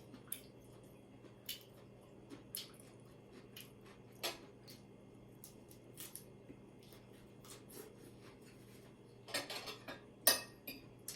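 Cutlery clinking and scraping against a plate or bowl during a meal, in scattered light clicks with a busier run of clatter near the end.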